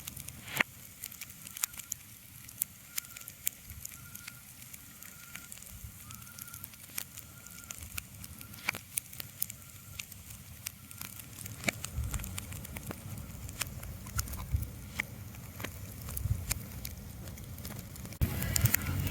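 Irregular sharp crackles and clicks over a faint hiss. A low rumble builds from about twelve seconds in, and the whole sound steps up suddenly in loudness near the end.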